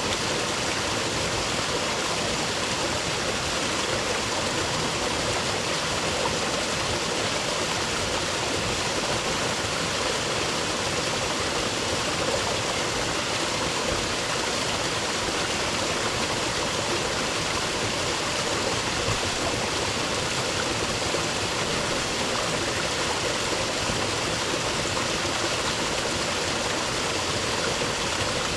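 Rainforest creek running water: a steady rush of a flowing stream, even and unbroken throughout.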